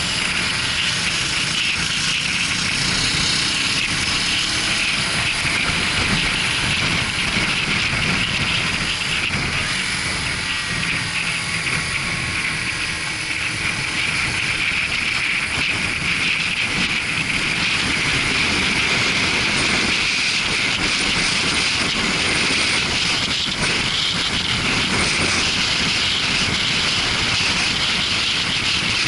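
Suzuki GW250 Inazuma motorcycle under way: a steady rush of wind and road noise with the parallel-twin engine running underneath.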